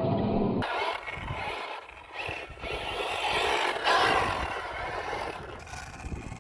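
Losi Baja Rey 1/10-scale RC trophy truck driving on dirt: its electric motor whines and its tyres scrape over the ground. The sound changes abruptly about half a second in, and there is a louder surge near the middle.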